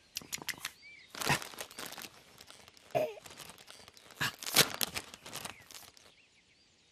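Crinkling, rustling bursts with a quick run of sharp clicks at the start, like something being crumpled or torn.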